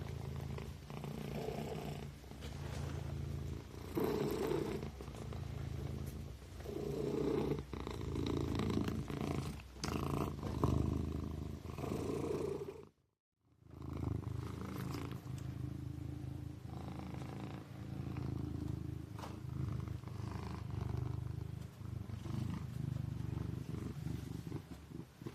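Kitten purring steadily, swelling and easing with each breath every two to three seconds. About halfway through, the sound cuts out completely for half a second, then resumes.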